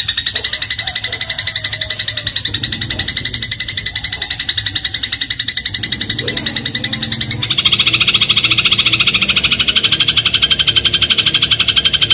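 Eurasian tree sparrow (burung gereja) giving a long, very fast trill of evenly repeated high chips. About seven seconds in, it switches to a slightly lower-pitched run of the same rapid chips.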